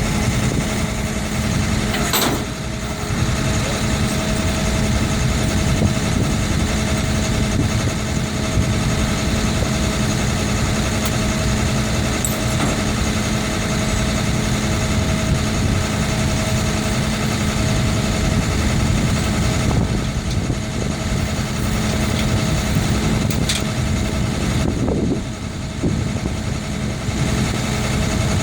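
A vehicle engine running at a steady idle: an even hum with a steady higher tone above it, and a couple of brief clicks along the way.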